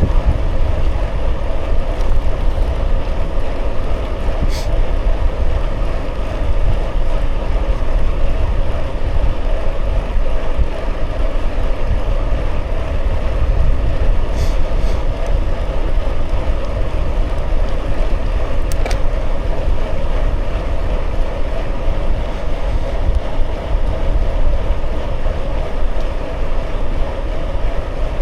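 Steady wind rumble on the microphone over bicycle tyres rolling along the road while riding, with three faint short high ticks spread through.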